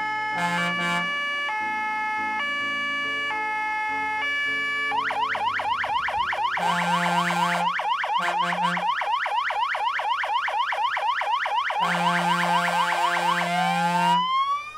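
Fire engine's electronic siren cycling through its modes: a two-tone hi-lo for about five seconds, then a fast yelp with several sweeps a second, and a slow rising wail beginning near the end. Deep air-horn blasts sound over it, twice around the middle and in a long pair near the end.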